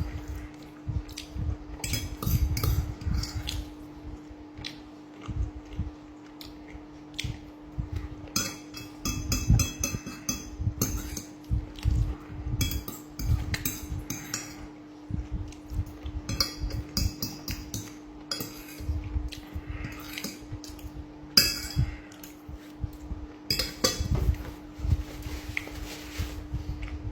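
Fork or spoon clinking and scraping against a plate while eating, in a string of short clicks and a few ringing metallic clinks.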